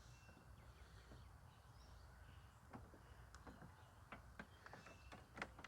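Near silence with faint scattered clicks and taps of hand work on a mower's blade engagement cable and its fittings. They come from about halfway through, the loudest near the end.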